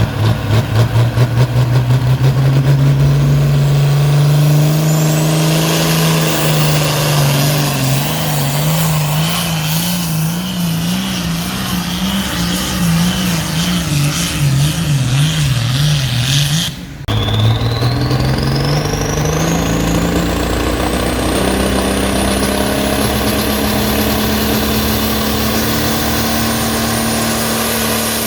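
Competition pulling vehicle's engine running hard under load, its pitch climbing and then wavering up and down. After a sudden break about two-thirds of the way in, an engine climbs again with a high whine rising steadily over it.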